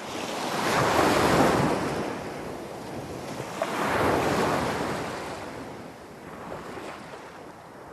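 Sea waves washing on a shore: two swells of surf, the first peaking about a second in and the second about four seconds in, each easing off.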